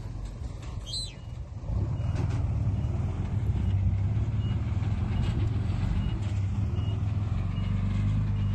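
Diesel engine of heavy earthmoving machinery running, the low rumble growing louder about two seconds in, with a faint high beep repeating.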